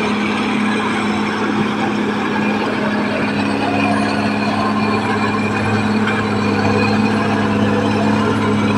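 Caterpillar D6R XL bulldozer's diesel engine running steadily, a continuous low drone with a broad mechanical noise over it, getting slightly louder in the second half.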